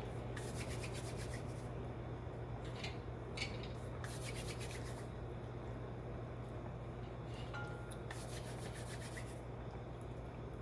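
Rubbing and scraping strokes come in three stretches of about a second each, over a steady low hum.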